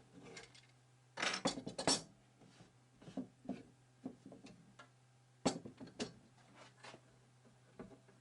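Irregular knocks and clinks of small hard objects being handled, with a burst of clatter about a second in and a single sharp knock about two-thirds of the way through, over a steady low hum.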